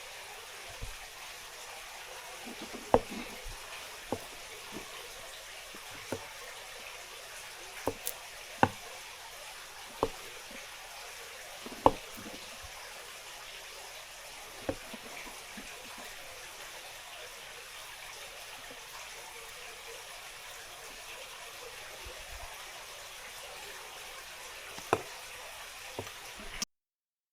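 Steady watery hiss of kitchen work, with scattered sharp knocks and clicks at irregular intervals. It cuts off abruptly near the end.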